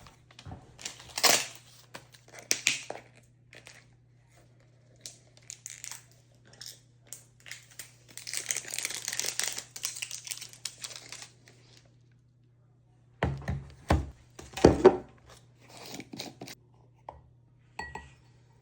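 Irregular bursts of rustling and crinkling, as of bags or packaging being handled, over a steady low hum. A cluster of louder knocks comes about two-thirds of the way through.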